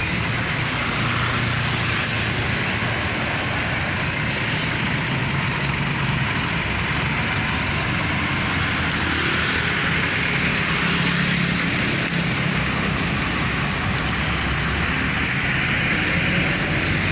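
Dense road traffic with buses and trucks passing: steady engine hum and tyre hiss without a break, the hum swelling about ten seconds in.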